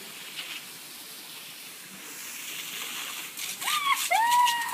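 Steady hiss of a water spray, then near the end a few sharp clicks and two short high-pitched calls.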